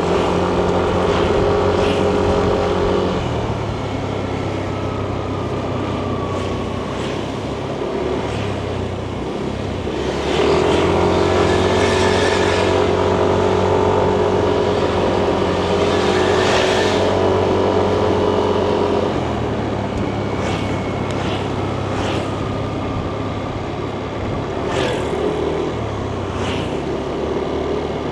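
Yamaha Nmax 155 scooter's single-cylinder engine and CVT running while being ridden. The engine is louder under throttle at the start and again from about ten seconds in to about nineteen seconds, and quieter in between and afterwards as the throttle eases off.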